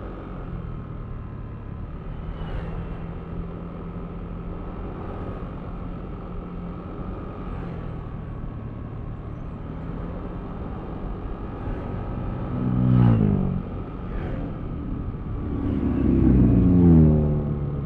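Yamaha Aerox V3 scooter's single-cylinder engine running steadily at road speed, with a faint steady whine. Near the end come two louder swells of engine sound whose pitch falls.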